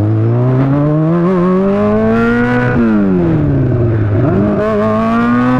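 Sportbike engine accelerating, its pitch climbing steadily for nearly three seconds. The pitch then drops sharply and sinks as the throttle comes off, and climbs again near the end.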